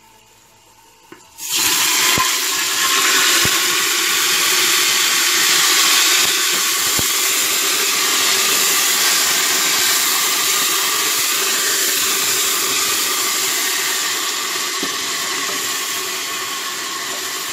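Ginger-garlic paste with green chillies and spices hitting hot oil in a pressure cooker: a loud sizzle that starts suddenly about a second and a half in and keeps going steadily, easing slightly near the end. A few light knocks come from the ladle stirring it.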